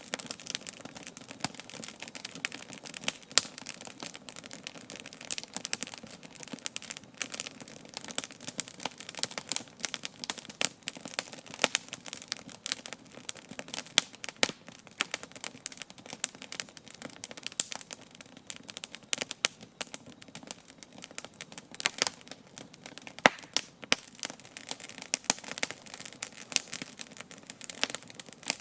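Campfire burning, the wood crackling with a dense, irregular run of sharp pops and snaps over a low steady hiss.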